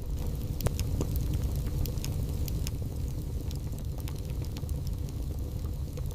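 Wood fire burning in a fireplace: scattered sharp crackles and pops from the burning logs over a steady low rumble of the flames.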